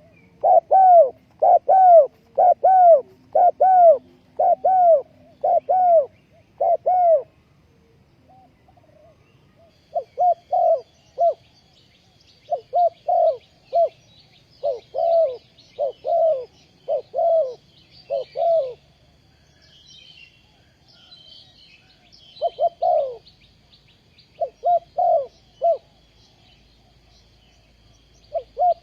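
Spotted dove cooing: loud, short, arched coos about two a second, coming in runs with pauses between them. Faint high chirps of small birds join from about ten seconds in.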